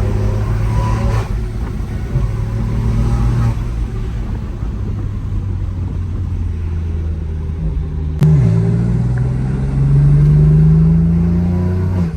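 Car engine pulling under acceleration, heard from inside the moving car. About eight seconds in there is a sharp click and the engine note suddenly drops, then climbs steadily again before easing off at the end.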